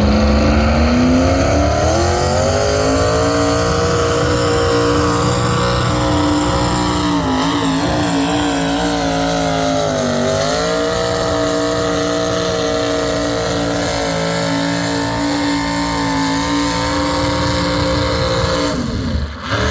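V8 engine of a pulling tractor under full load on a pull: the revs climb over the first couple of seconds, hold high and steady, sag briefly about halfway and recover, then fall away just before the end.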